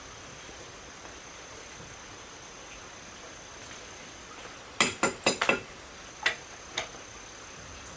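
Sharp metal clinks of hand tools or engine parts being handled: about five in quick succession a little past the middle, then two more singly. Under them runs the steady high trill of an insect.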